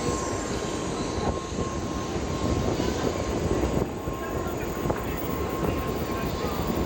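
Steady rumble of a Shinkansen train at the station platform, with a faint steady tone running through it.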